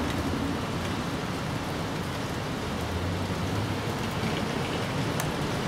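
Steady rain falling on leaves and grass: an even hiss with a few faint sharper drip ticks.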